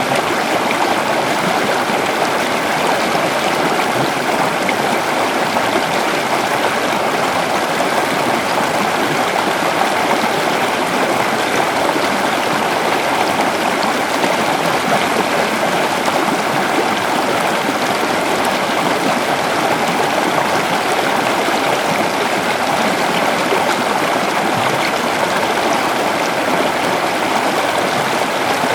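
A river flowing over rocks, a steady rushing and burbling of running water.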